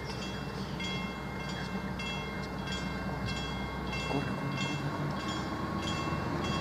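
A train approaching, its low rumble slowly growing louder toward the end. Over it runs a high-pitched ringing pattern that repeats about twice a second.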